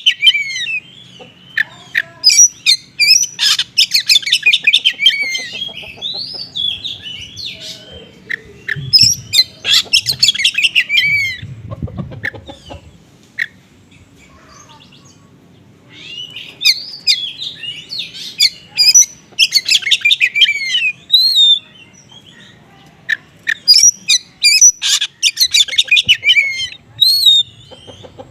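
Oriental magpie-robin (kacer) singing in loud, rapid phrases of high chirps, twittering and trills. The song is laced with mimicked calls of small birds. It breaks off for about three seconds midway before starting again.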